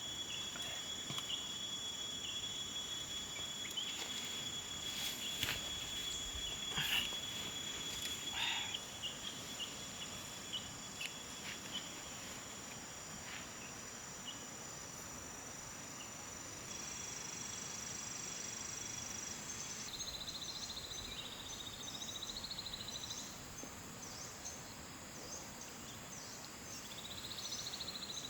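Insects trilling steadily in a high, thin chorus, with a run of sharp clicks and knocks in the first third. About two-thirds of the way through the chorus shifts into a wavering, pulsing call.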